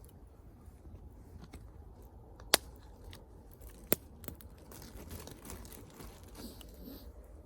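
Wood fire crackling, with scattered sharp pops, two of them loud, about two and a half and four seconds in.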